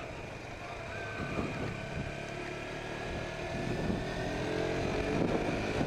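KTM RC motorcycle engine running under way, its pitch climbing steadily through the second half as it accelerates, over a low wind rumble.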